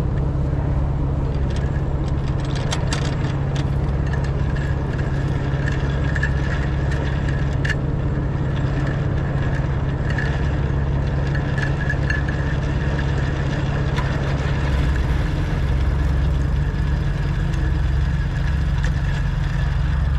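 Recovery vehicle's engine running steadily at a low hum, with scattered light rattles and clicks.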